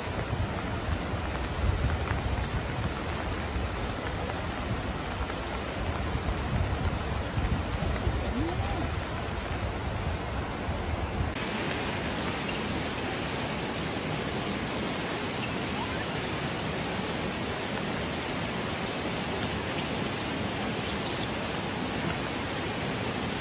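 Steady hiss of rain falling on a hot-spring pool and wet stone. For the first half there is also a low rumble of wind on the microphone; about halfway the sound changes abruptly, brighter and without the rumble.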